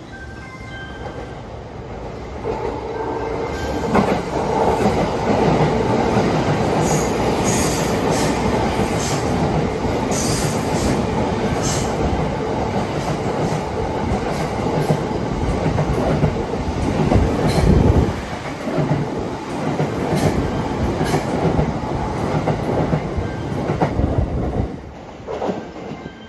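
JR 285 series sleeper electric multiple unit passing through a station without stopping: a rumble of wheels and rail joints that builds a couple of seconds in, stays loud for about twenty seconds with brief high wheel squeals and clicks, then dies away near the end.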